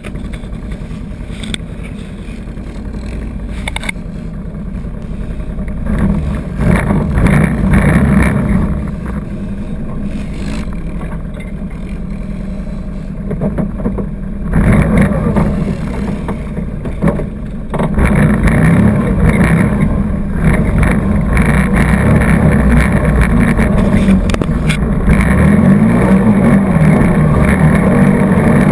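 ATV engine running under changing throttle, surging and easing off repeatedly, with scattered knocks and rattles from the ride over rough trail; louder and steadier in the second half.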